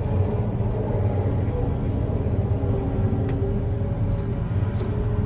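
Heavy diesel machinery running steadily with a constant low rumble, with a few brief high-pitched chirps about a second in and near the end.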